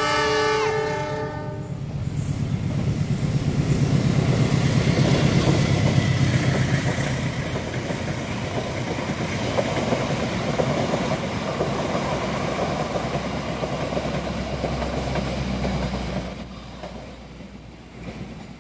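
A diesel locomotive's horn sounds and cuts off about a second and a half in. The train then passes close by: the locomotives' engines rumble and the coaches clatter over the rail joints, and the noise falls away after about sixteen seconds.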